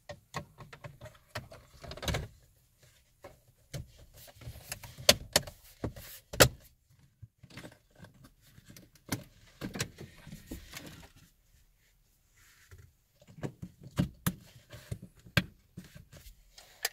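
Irregular clicks, knocks and light rattles of hands working on parts inside a car, with the sharpest clicks about five and six and a half seconds in and a quiet stretch around eleven to thirteen seconds.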